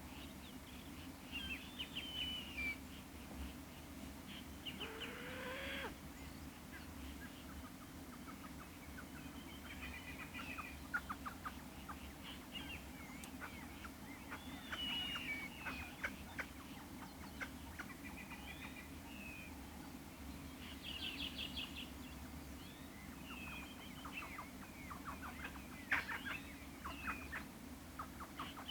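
Wild birds calling in a rapid series of short notes, some gliding up and down and some in quick ticking runs, over a steady low hum.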